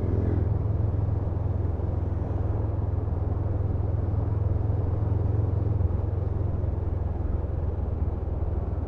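Honda CMX500 Rebel's parallel-twin engine running at a steady cruise while riding, heard as an even, deep rumble with no gear changes or revving.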